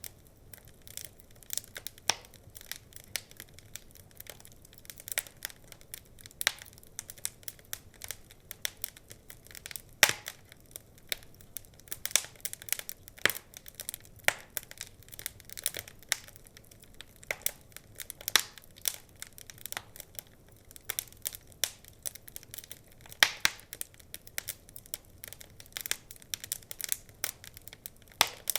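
Wood fire crackling, with irregular sharp pops and snaps over a faint hiss and a few louder pops.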